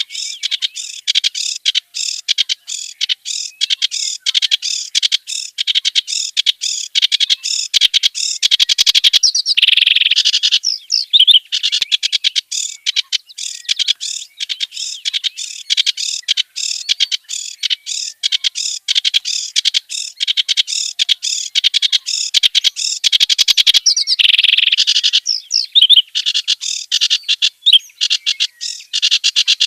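Kerak basi, a reed warbler, singing a long, fast chattering song of harsh, croaking and whistled notes, with two denser, busier runs along the way.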